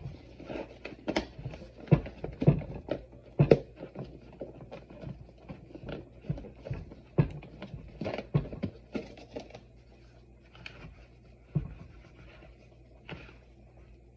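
Irregular taps, clicks and knocks of hands handling rotisserie chicken pieces and kitchen ware, busy at first and thinning out near the end.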